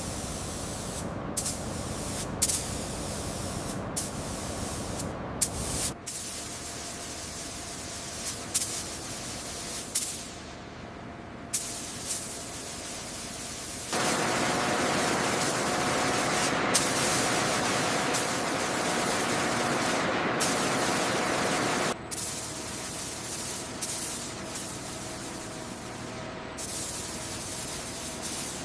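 Steady spraying hiss with no clear pitch, cut short every second or two and starting again. A louder, denser stretch runs through the middle for about eight seconds, with a faint steady tone under it.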